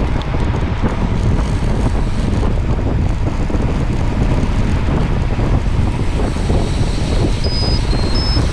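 Steady, loud wind buffeting the microphone, a dense low rumble. Three short high-pitched tones sound near the end.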